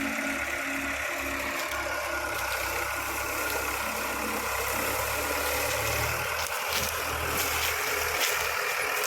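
Sugarcane harvester's engine running steadily, with a few sharp cracks in the last few seconds.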